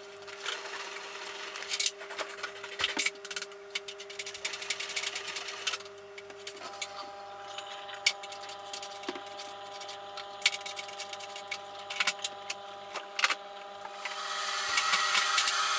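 Hotpoint washing machine running a wash cycle: a steady motor hum that changes pitch partway through, with irregular clicks and rattles from the turning drum and its load. A louder rushing hiss sets in near the end.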